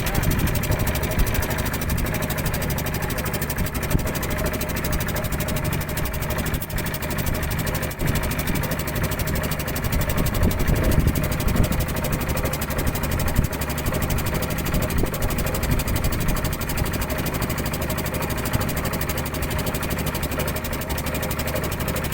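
A small fishing boat's engine running steadily, a constant even chug.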